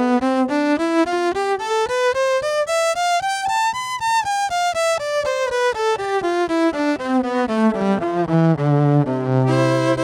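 Five-string electric violin (Fortevio Spirito) played through a guitar amp without effects: a quick bowed run that climbs from the low range up to about the middle, then comes back down, ending on a held chord near the end.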